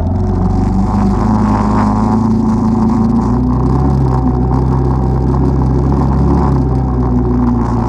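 ATV engine running steadily during a ride, its pitch shifting a little with the throttle.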